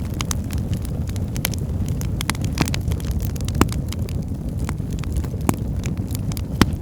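Wood fire in a fireplace burning with a steady low rumble and scattered sharp crackles and pops; the loudest pops come about midway, near the end and just before.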